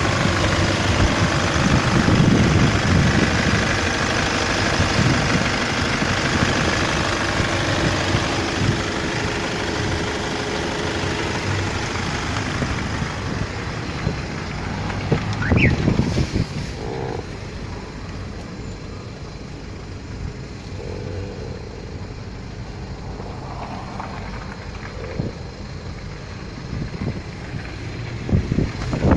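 Hyundai/Kia D4CB 2.5-litre common-rail turbodiesel running at a steady idle, growing quieter after about the middle. A brief rising whistle is heard about halfway through.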